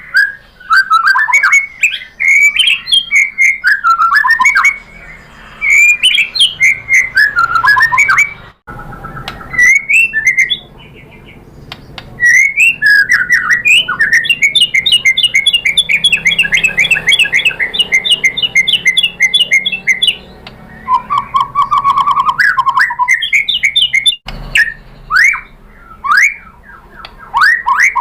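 White-rumped shama (murai batu) singing a varied song of loud whistled phrases and glides, with a long rapid trill in the middle and a lower, rattling trill later on. The song is broken by a couple of abrupt gaps.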